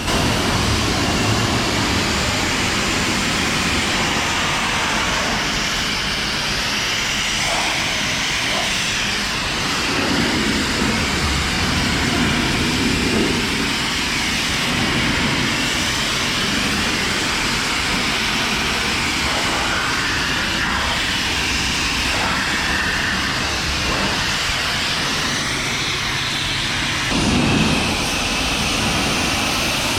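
High-pressure car wash spray wand blasting water onto a car: a loud, steady hiss whose tone wavers slowly as the spray moves. It changes and swells briefly near the end.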